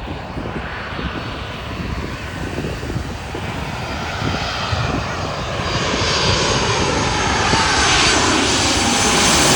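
Boeing 737-800 jet airliner's CFM56 turbofan engines on very low final approach, growing steadily louder as it comes overhead. A high whine of several tones slides slowly in pitch over a rumble, loudest near the end.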